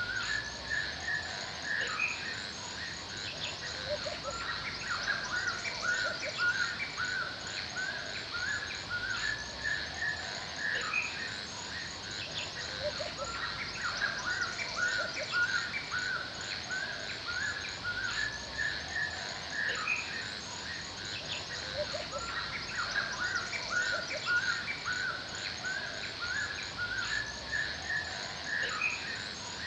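Forest birds chirping busily in many short, repeated calls, over a steady high-pitched chirring of insects.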